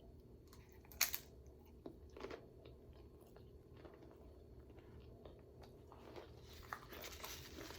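Close-miked chewing of a mouthful of a rice-and-bean burrito bowl, with soft wet mouth clicks and a sharper click about a second in.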